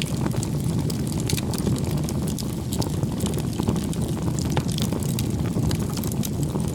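Wood fire burning, a steady low roar of flames with frequent sharp crackles and pops from the burning wood.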